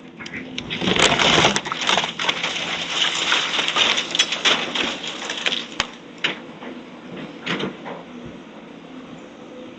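Demolition debris crunching and cracking as it is broken up, a dense clatter for several seconds that thins to a few scattered knocks, over a faint steady machine hum.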